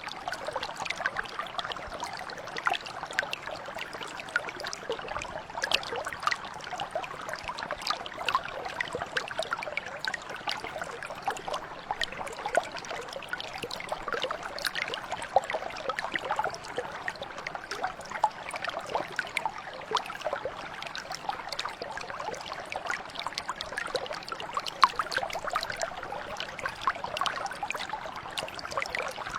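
Mountain brook flowing over stones, a steady babbling and trickling with many small irregular splashes.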